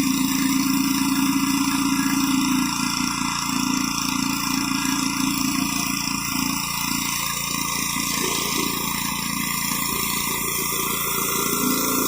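Gas-engine pressure washer running steadily, its high-pressure water spray hissing as it blasts grime off concrete.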